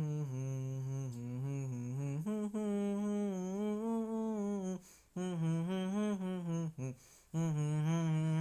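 A low voice humming a tune with the mouth closed, the melody moving up and down with no words. It stops for two short pauses in the second half.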